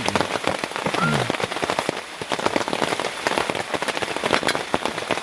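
Heavy rain falling, with many separate drop hits close by.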